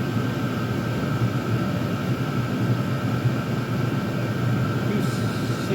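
Several Chinese diesel air heaters running together: a steady drone of their combustion and blower fans with a constant high whine over it.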